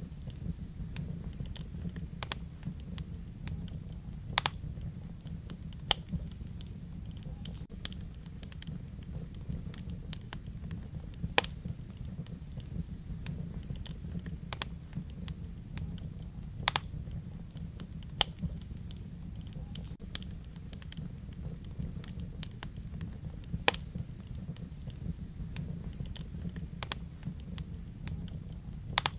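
Wood fire burning in a fireplace: sharp crackles and pops at irregular moments, a few every several seconds, over a steady low rumble.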